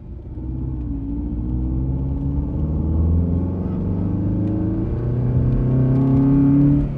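Car engine running and accelerating, its pitch climbing slowly with a few small dips, then stopping near the end.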